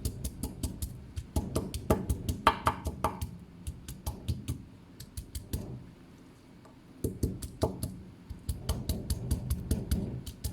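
Kitchen knife chopping rapidly on a cutting board, mincing food by hand, several quick chops a second with a short pause a little past halfway.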